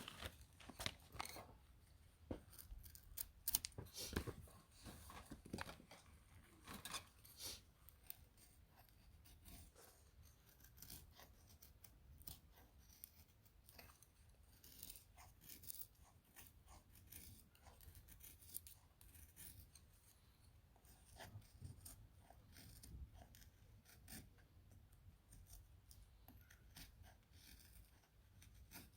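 Faint, irregular small clicks and crackles, a few sharper ones in the first several seconds and then scattered lighter ones.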